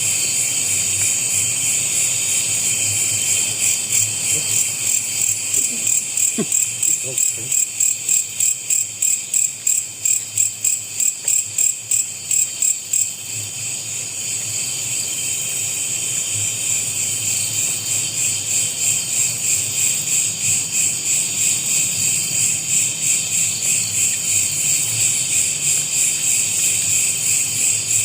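Dense chorus of night insects such as crickets, a high-pitched shrill trilling that pulses a few times a second for long stretches.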